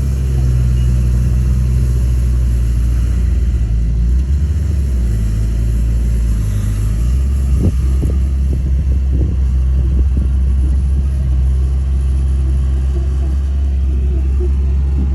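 Heavy earth-moving machine's diesel engine running steadily with a deep rumble, with a few short knocks about halfway through.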